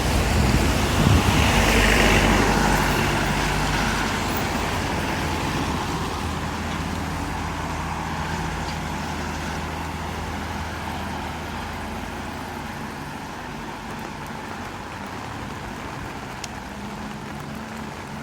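A motor vehicle's engine runs close by, then fades steadily over about ten seconds as it moves away along the wet street.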